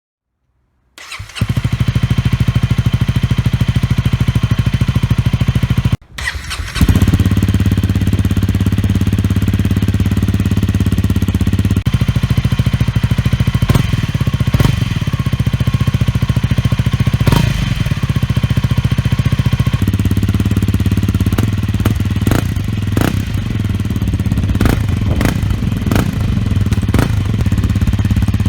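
Honda CRF250L's single-cylinder engine running steadily at idle through its exhaust, starting about a second in. It cuts out briefly about six seconds in and picks up again, with short sharp cracks coming more often in the later part.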